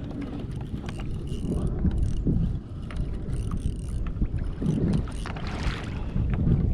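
Wind buffeting the microphone over water sloshing against a fishing kayak's hull, with a few small knocks.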